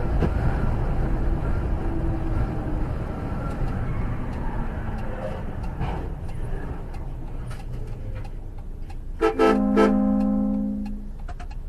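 Steady low rumble of a vehicle driving on the road. About nine seconds in, a two-note car horn sounds: two quick toots, then a held blast of a second or so.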